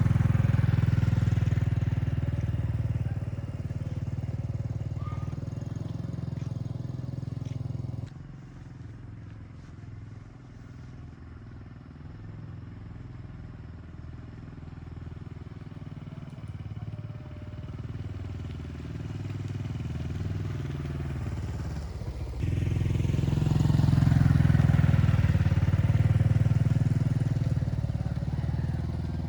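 A motor vehicle's engine running steadily. It fades about a quarter of the way in and grows louder again after about two-thirds.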